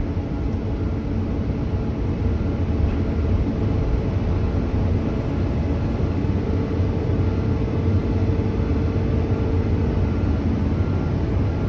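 A truck's diesel engine running steadily with a low rumble. A faint steady whine joins in about six seconds in and stops near ten seconds.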